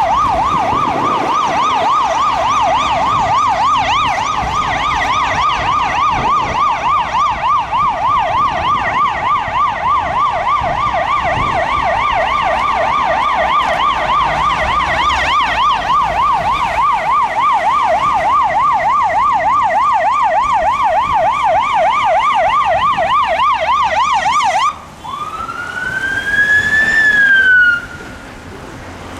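Fire appliance's electronic siren on a fast yelp, sweeping up and down several times a second. Near the end it cuts off suddenly, gives one rising-then-falling wail, and stops.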